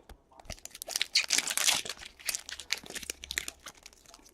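Foil trading-card pack wrapper being torn open and crinkled, a dense crackle about a second in, followed by scattered light rustles and clicks of cards being handled.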